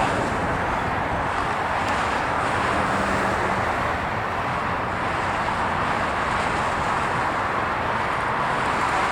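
Steady jet engine noise from an Airbus A330-243 with Rolls-Royce Trent 700 engines on its landing at the runway, an even rushing sound.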